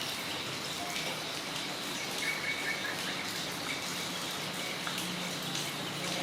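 Steady rain falling on a yard, an even hiss with scattered drip ticks, and a bird chirping briefly about two seconds in.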